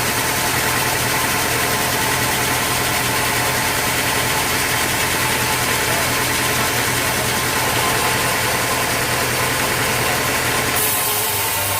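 Sawmill machinery running steadily with an engine-like hum, its tone changing abruptly about a second before the end.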